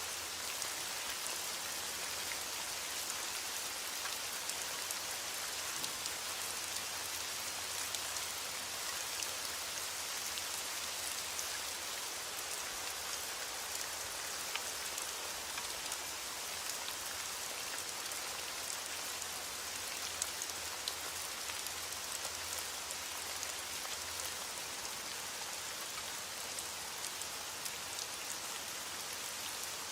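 Steady rain falling, a constant hiss with many small drop ticks on a surface.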